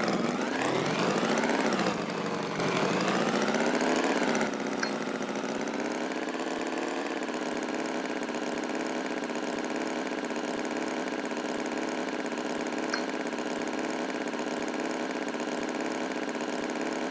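An engine revs up and down twice, then settles into a steady idle.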